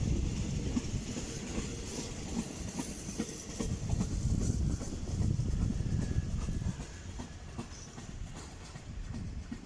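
A freight train's wagons rolling past, wheels clacking over the rail joints over a low rumble that eases off about seven seconds in.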